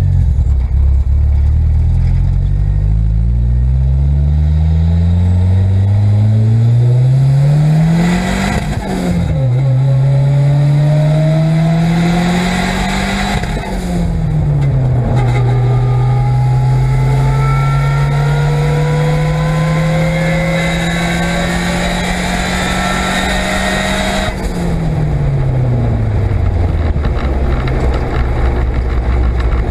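Datsun A14 four-cylinder engine with a T25 turbo accelerating hard through the gears. The revs climb, drop at a gearchange after about eight seconds and another about fourteen seconds in, pull steadily in the next gear, then fall away as the throttle is lifted near the end. A higher whine climbs with road speed alongside the engine: the massive gearbox whine the owner found on this run.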